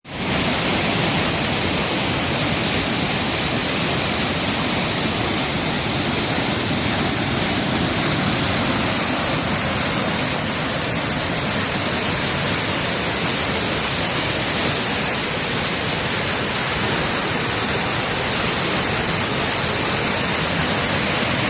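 Waterfall, swollen by heavy rain, rushing loudly and steadily close by.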